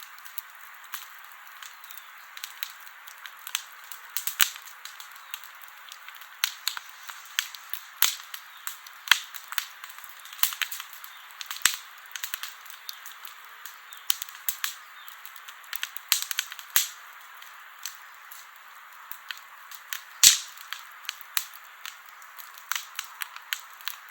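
Wood campfire crackling, with irregular sharp pops over a steady soft hiss; the loudest pop comes about twenty seconds in.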